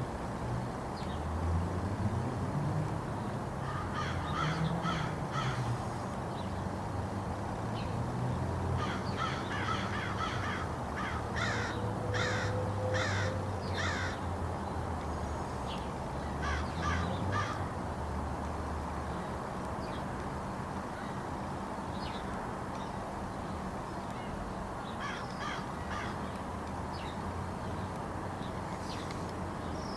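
Crows cawing in several bouts of short, repeated caws, with a steady low rumble underneath.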